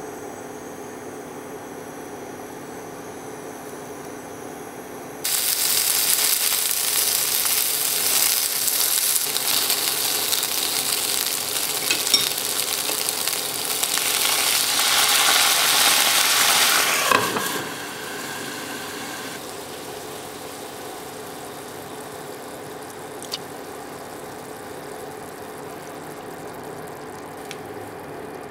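Food frying in a hot pan: a loud sizzle starts suddenly about five seconds in and stops about twelve seconds later, over a steady low hum.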